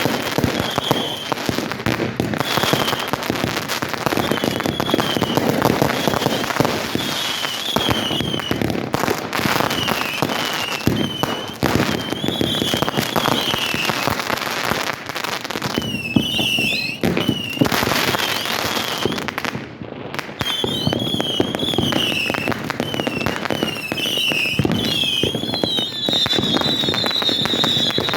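Fireworks going off continuously: dense crackling and popping, with short high wavering whistles over it and one longer held whistle near the end.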